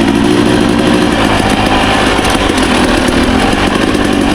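Dirt bike engine running steadily at an even, moderate pace while riding the trail in second gear.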